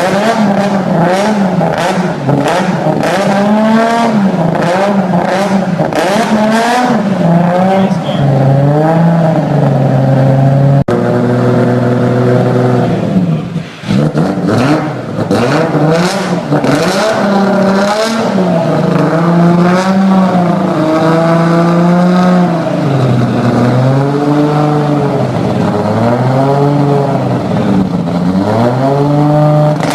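Toyota Supra MK4's turbocharged 2JZ straight-six being revved hard and let off again and again, its pitch rising and falling every second or two. Sharp cracks come through in the first several seconds and again about halfway through.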